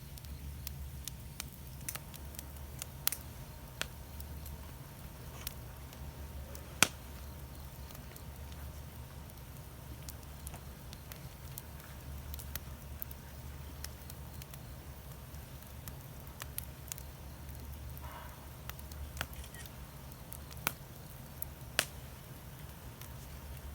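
Wood fire in a fire pit stand crackling, with irregular sharp pops, the loudest about seven seconds in, over a steady low rumble.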